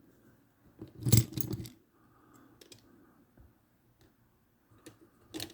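Small hard clicks and a clatter of die-cast toy cars being handled: one loud burst of knocks about a second in, then a few light clicks and a shorter clatter near the end.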